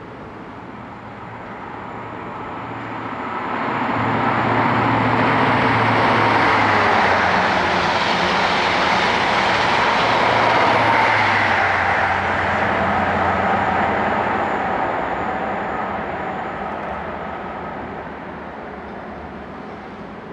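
A train passing: a rushing rumble of rail and engine noise that swells over about four seconds, stays loud for roughly ten seconds, then fades away.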